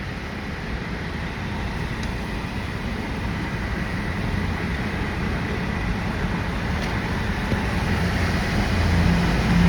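Car driving in slow traffic, heard from inside the cabin: a steady engine and road rumble that grows louder near the end, with a low hum coming in.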